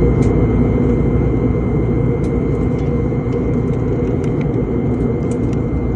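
Passenger airliner cabin noise: the steady drone of engines and airflow, heaviest in the low range, with a faint steady high whine above it.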